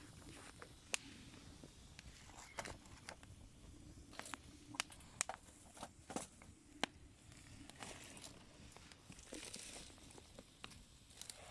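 Small wood fire crackling in a hobo stove, with irregular sharp pops and snaps several times a second over a faint low hiss.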